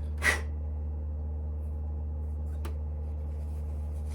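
A single sharp metallic clink about a third of a second in rings briefly over the steady low hum of the Smithy lathe, as metal taps against the brass workpiece or the machine. A much fainter tick follows near the end.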